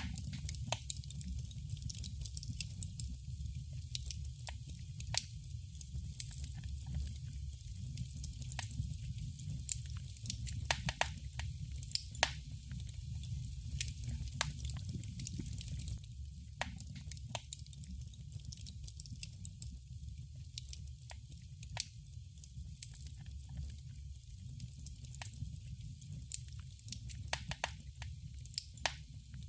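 Wood fire crackling in a fireplace: irregular sharp pops and snaps over a steady low rumble of the flames, with a few louder pops around the middle.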